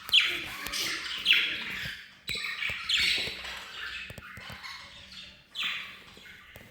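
Budgerigars chirping and chattering, with several loud, sharp chirps that fall in pitch, spread through a stretch of softer warbling.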